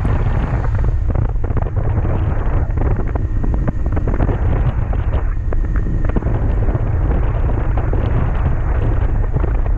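Wind buffeting the microphone at riding speed, a steady low rumble, with a 2007 Honda CB400SF's inline-four engine running underneath.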